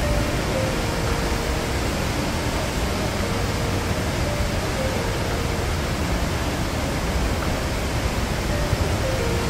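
Waterfall rushing steadily, a dense, unbroken noise of falling water.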